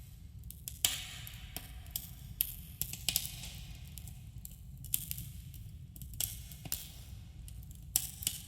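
Wood campfire crackling, with irregular sharp pops and snaps over a steady low rumble, and a subtle echo from the cave around it.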